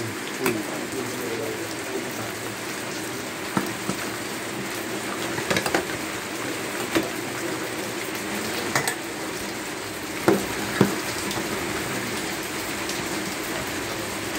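Food sizzling while it fries, a steady crackling hiss, with a few sharp knocks and clicks scattered through it.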